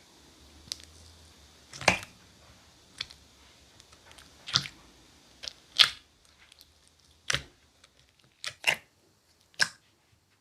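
Sky-blue slime mixed with cloud clay being squeezed and stretched by hand, giving about ten sharp, crackly squishing pops at irregular intervals.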